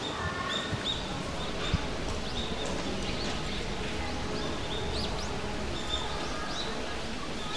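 Small birds chirping over steady outdoor background noise, with many short rising calls repeated throughout.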